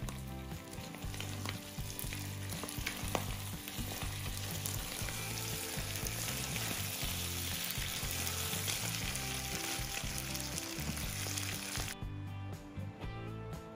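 Diced potatoes and browned meat sizzling in a frying pan, stirred with a spatula, over background music. The sizzle cuts off suddenly about twelve seconds in, leaving only the music.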